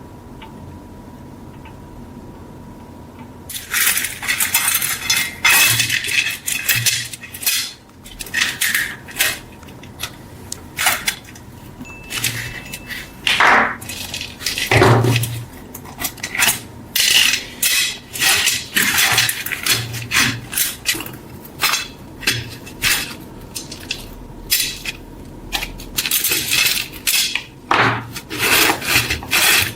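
Hand-worked scraping strokes on the steel of old rusty scissors, short and irregular, about one or two a second. They start a few seconds in, after a faint steady hum.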